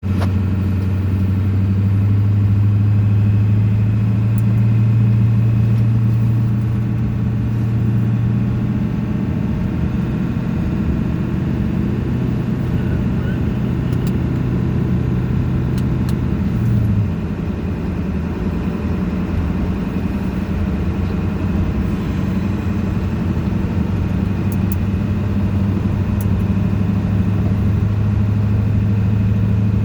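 Steady engine hum and road rumble of a vehicle being driven. The engine note shifts slightly and dips in loudness about seventeen seconds in.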